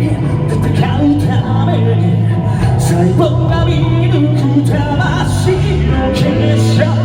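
Live rock band playing loud, with singing over distorted electric guitar, bass and drums, as heard from the audience in a large hall.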